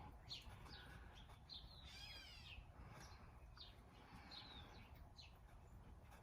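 Faint bird chirps: short chirps about once a second, with one longer warbling call about two seconds in, over quiet room tone.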